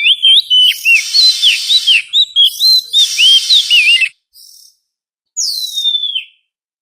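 Oriental magpie-robin singing: a quick run of varied, sweet whistled notes gliding up and down, with a hissing noise behind them, then a pause and one long falling whistle near the end.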